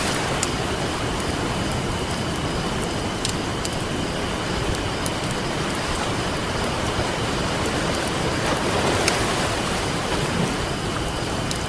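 Campfire crackling, with scattered sharp pops, over the steady rush of ocean surf, which swells a little near the end.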